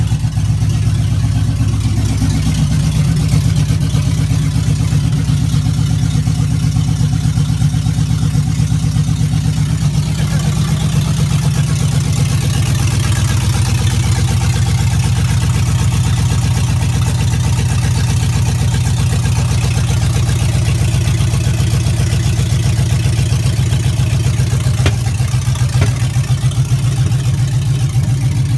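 GM LS V8 idling steadily on its first start-up after the swap, on open headers with no exhaust. The idle shifts a little about two seconds in and again about twelve seconds in.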